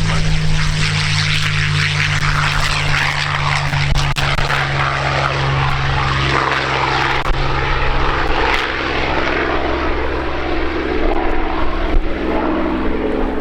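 P-51D Mustang's V12 Merlin engine and propeller running loud and steady, a deep droning engine note under a broad rushing noise.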